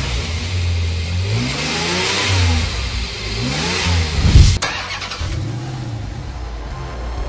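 Twin-turbocharged 6.1-litre Hemi V8 of a Dodge Challenger revving in repeated blips, its pitch rising and falling, loudest about four seconds in. Just after that the sound changes abruptly to a duller recording of the engine, still rising and falling.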